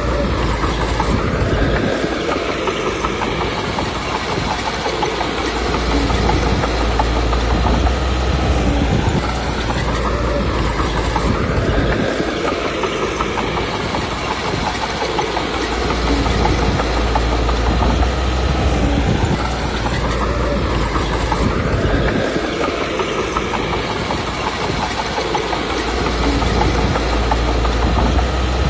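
Komatsu D21P crawler bulldozer working: its diesel engine running under load with the clatter of its steel tracks. The engine note swells and eases in a repeating cycle about every ten seconds, with a heavy low rumble in each cycle.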